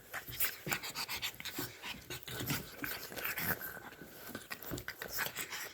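Pug puppies panting close to the microphone, with many irregular short clicks and rustles.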